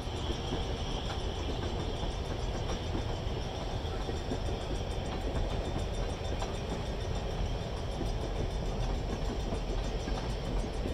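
Freight train's tank cars rolling steadily through a road crossing: a continuous rumble of steel wheels on the rails.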